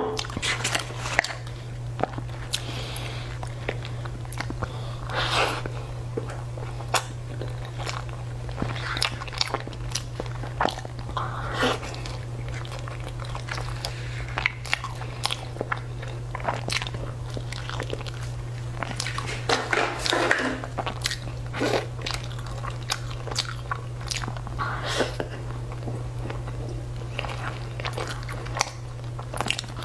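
Close-miked chewing and biting of fried food, with many sharp crunches and wet mouth sounds scattered throughout, over a steady low hum.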